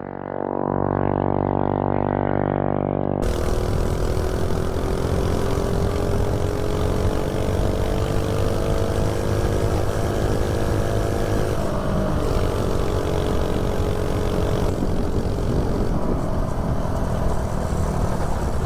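A 79cc LCT snowblower single-cylinder engine on a Coleman CC100X mini bike, running hard at riding speed through its header pipe. Its pitch climbs slowly, dips briefly past the middle, then holds steady. The sound is muffled for about the first three seconds, then a rush of wind noise joins it. The engine keeps running cleanly with J-B Weld in place of the head gasket.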